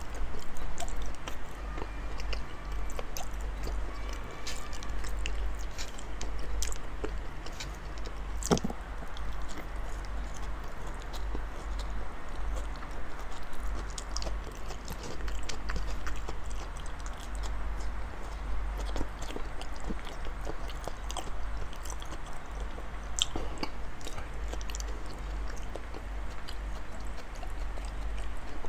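Close-up sounds of a person chewing big mouthfuls of raw salmon: soft, wet chewing with irregular small clicks of the mouth and lips, over a steady low hum.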